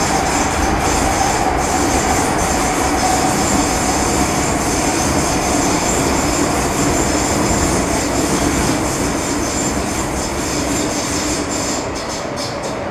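MTR Metro Cammell M-Train (GEC GTO chopper EMU) running through the tunnel, a steady rumble and hiss with a whine that falls slowly in pitch. The sound eases off a little near the end, with a few clicks.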